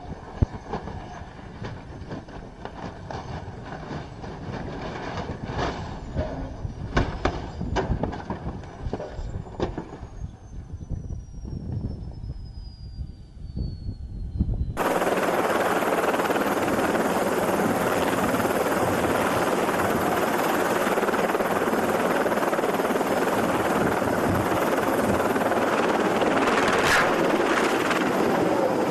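Low rumbling with scattered knocks and a slowly falling whistle. About halfway through it cuts abruptly to a loud, steady rush of helicopter noise that holds even.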